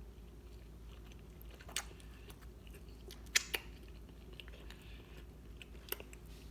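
Close-up chewing of Popeyes fried chicken, with a few sharp crunchy clicks, about four, over a faint low hum.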